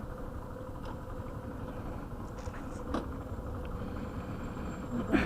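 Yamaha motorcycle engine running steadily, with an even low rumble and a thin steady tone.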